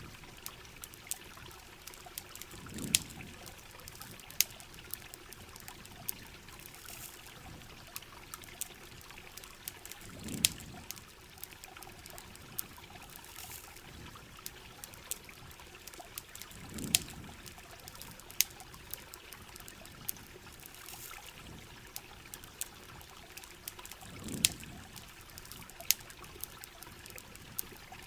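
Rain and trickling water running steadily, with sharp campfire crackles and pops scattered throughout. Four times, about seven seconds apart, a short low muffled thud swells up and fades.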